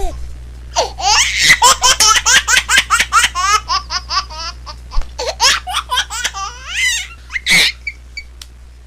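A baby laughing hard in a long run of quick, high-pitched laughs that starts about a second in, ending in a louder squeal near the end.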